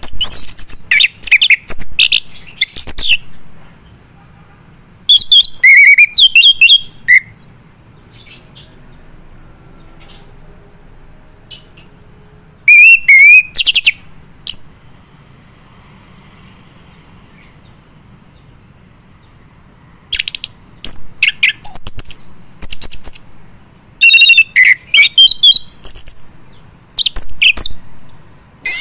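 Male chestnut-capped thrush (anis kembang) singing loud bursts of rapid, high warbling and whistled phrases, each a second or few long, with pauses between them.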